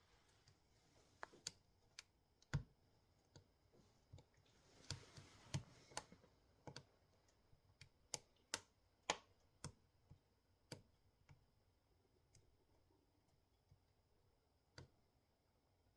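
Firewood crackling in a wood-burning stove: sharp, irregular pops and snaps, closer together in the first ten seconds and sparser after, with a brief soft hiss about five seconds in.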